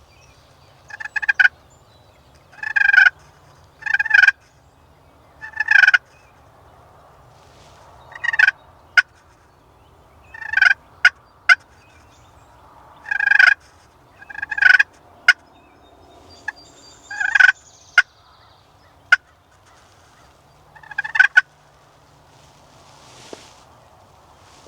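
Wild turkeys gobbling close by, about ten short loud gobbles at uneven intervals, with a few sharp clicks in between.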